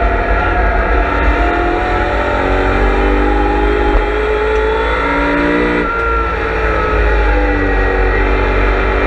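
In-car sound of a BMW M3 E92's V8 engine at racing speed, the revs climbing under load, dropping sharply about six seconds in, then climbing again.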